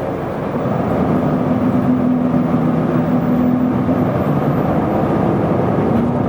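Isuzu Erga city bus running, heard from inside the cabin: diesel engine drone over road and tyre noise, growing a little louder about a second in as it pulls along, then steady.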